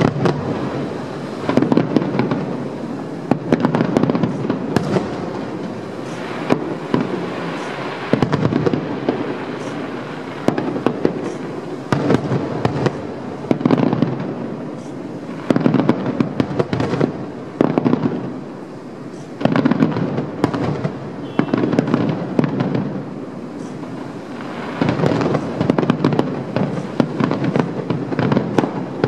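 Aerial fireworks shells bursting in a fast, continuous barrage of booms and sharp bangs, swelling into loud clusters every couple of seconds.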